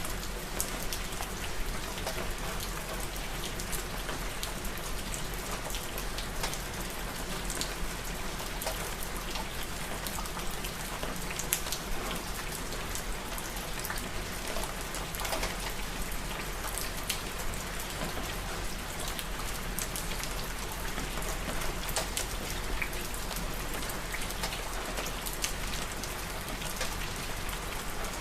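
Steady rain falling, with single drops tapping sharply on a surface every so often.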